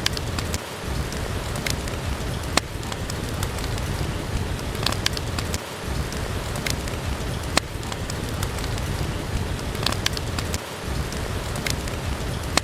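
Steady rain hiss over a deep low rumble, with scattered sharp crackles and pops from a wood fire in a fireplace.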